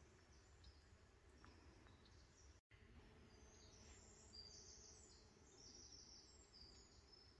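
Near silence: faint forest ambience with a low rumble, and distant birds chirping, more of them after a brief dropout about two and a half seconds in.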